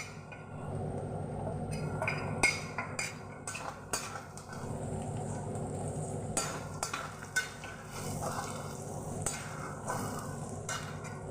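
Onions with garlic, ginger and coriander powder sizzling in oil in a karahi while being stirred, with repeated clicks and scrapes of the stirring utensil against the pan.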